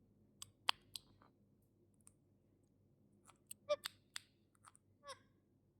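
Pet parrot making faint, scattered sharp clicks, with two short squeaky chirps near the middle and near the end.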